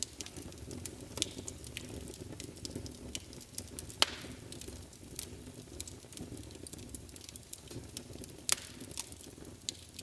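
Wood fire crackling in a fireplace: a steady low rush of flames with irregular sharp pops and snaps, the loudest about four seconds in and again past eight seconds.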